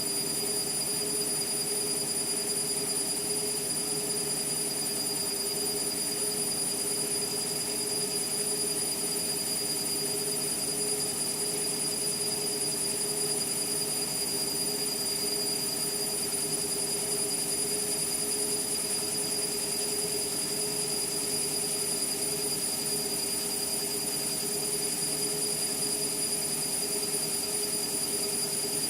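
Indesit MTWC71252WUK washing machine spinning at a steady speed, its motor giving a constant high-pitched whine over the hum of the drum.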